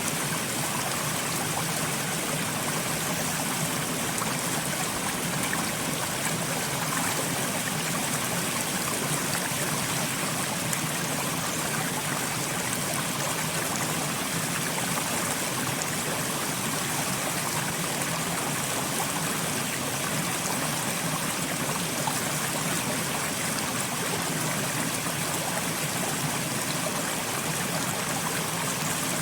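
Soft rain falling steadily: an even hiss of water that does not change or break.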